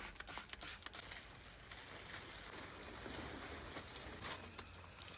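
Faint, steady pattering of water, with scattered ticks near the start.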